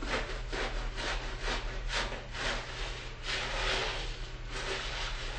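Wet-shaving strokes on a stubbled face: short rubbing, scraping strokes about two a second, with one longer stroke around the middle.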